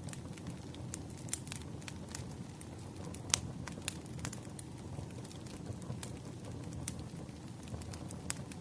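Campfire burning with a steady low rumble and irregular sharp crackles and pops of burning wood, one louder pop about three seconds in.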